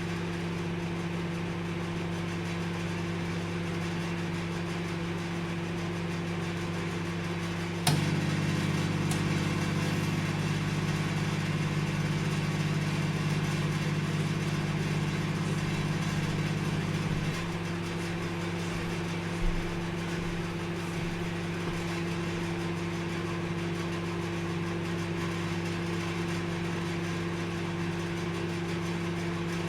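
Microwave oven running with a steady hum. About eight seconds in, a click comes and the hum turns louder and fuller for about nine seconds, then drops back to the quieter hum.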